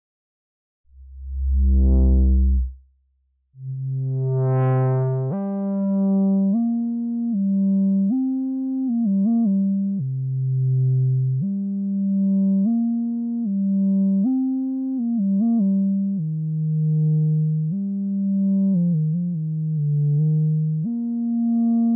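Surge XT software synthesizer playing a low note, then after a short gap a continuous line of changing notes. The line's volume swells and fades about once a second.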